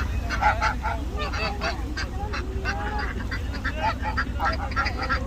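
Geese honking repeatedly, many short calls overlapping one another, over a steady low rumble.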